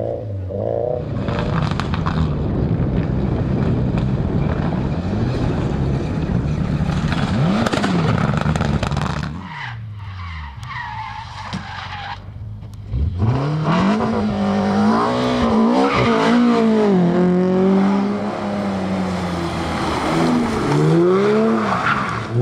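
Rally car engines at full throttle with tyre and surface noise as the cars slide past. There is a quieter gap about ten seconds in; then an engine revs up and down repeatedly through gear changes.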